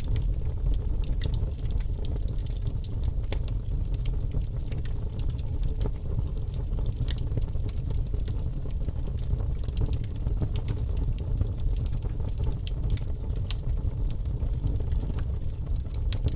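Wood burning in a fireplace: a steady low rumble of the flames with irregular sharp crackles and pops from the logs, several a second.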